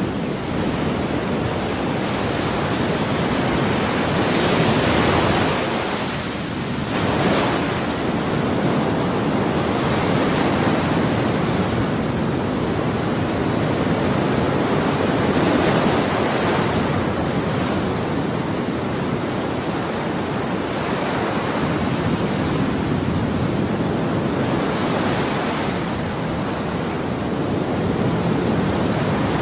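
Ocean waves breaking and washing on a shore in a continuous rush, with a slow rise and fall as each wave surges in every few seconds.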